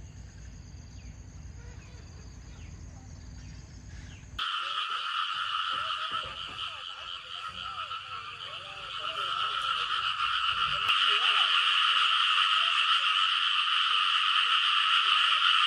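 A low, steady rumble, then a sudden switch about four seconds in to a dense, continuous frog chorus: a high, unbroken trilling drone with scattered croaks beneath it. The chorus grows louder about eleven seconds in.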